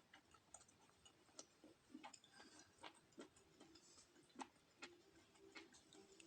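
Faint eating sounds: irregular soft clicks and smacks, two or three a second, from chewing octopus.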